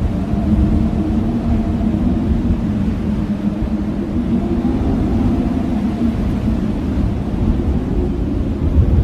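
Blizzard wind howling steadily over a deep rumble, its low moaning tones wavering up and down in pitch.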